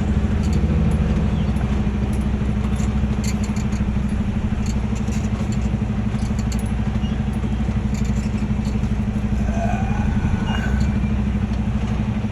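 A tractor-trailer's diesel engine runs steadily at low revs as the truck creeps backward, with a few faint clicks and rattles over the hum.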